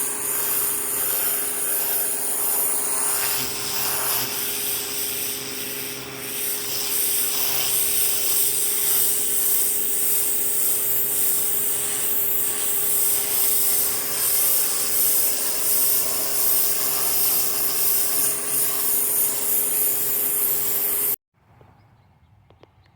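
Greenworks 2000 psi electric pressure washer running and spraying, a steady hiss of the water jet over a constant motor hum. It stops suddenly near the end.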